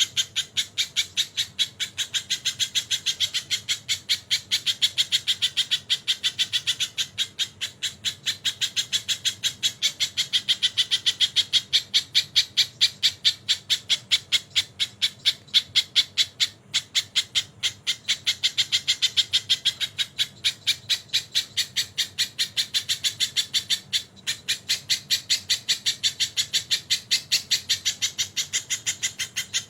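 Crested jay ('sogon') calling in a long, fast series of harsh notes, about five a second, with a few brief breaks. The song is filled with mimicked kingfisher ('tengkek') calls.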